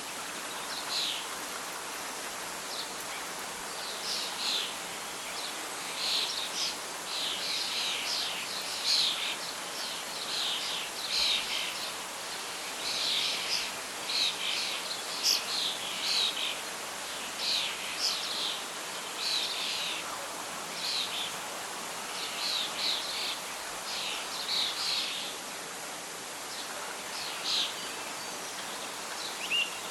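Birds singing and chirping over a steady bed of wind and rustling leaves, the calls coming in quick clusters of short high notes through most of the stretch.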